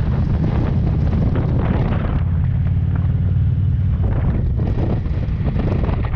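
Police motorcycle engine running under way, with heavy wind buffeting on the microphone as a steady low rumble.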